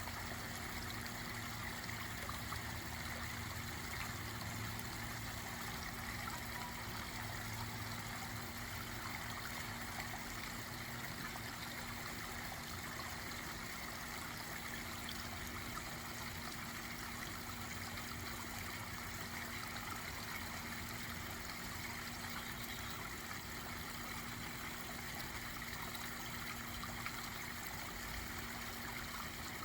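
Backyard pond waterfall trickling and splashing steadily, with a steady low hum beneath.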